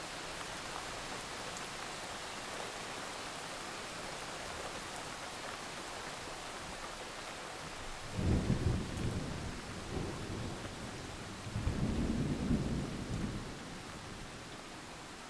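Steady rain hissing, with two low rolls of thunder, one a little past halfway and a second about three seconds later.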